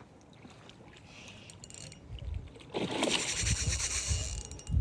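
A hooked trout being fought at the water's surface: a sudden rush of splashing starts about halfway in and keeps going, with low rumbles under it from the rod and reel being handled.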